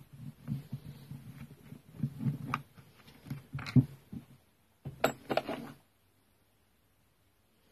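Hands working on the strimmer's parts and tools: low thuds and rustling with several sharp clicks and knocks, stopping abruptly about six seconds in.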